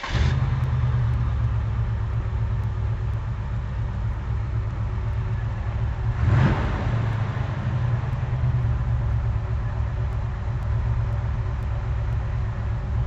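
A 1969 Chevelle's stroked 350 small-block V8, with a Voodoo camshaft, tri-Y headers and 40-series Flowmaster dual exhaust, fires up and idles with a deep, steady rumble. There is one short throttle blip about six seconds in.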